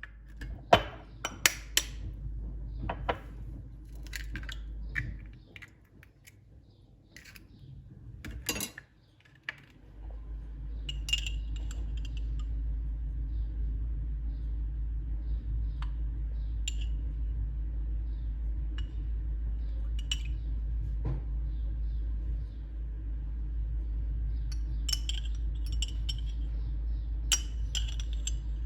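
Scattered clinks and knocks of tableware being handled, over a steady low hum that drops out for a few seconds in the first third.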